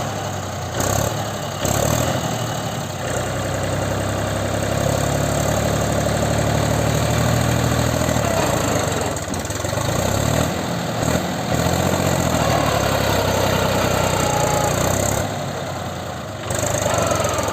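Tractor diesel engine running loudly and being revved, its pitch rising and falling several times, easing off briefly near the end before picking up again.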